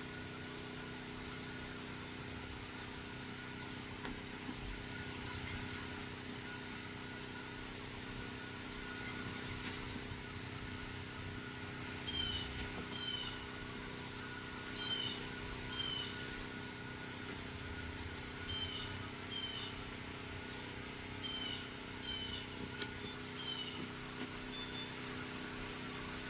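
Blue jay giving harsh calls, about nine of them, mostly in pairs, in the second half. Under them runs a steady mechanical hum with fixed tones, which the uploader takes for a compressor.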